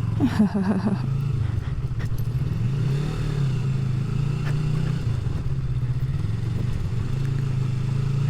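Motorcycle engine running at low road speed, its note rising and falling a little as the throttle is eased on and off.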